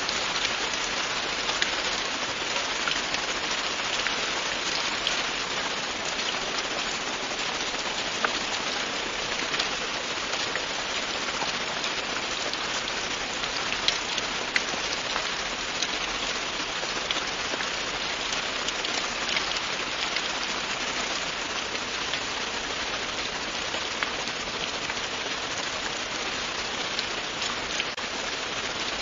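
Steady, continuous rain with many small drop impacts pattering on a surface.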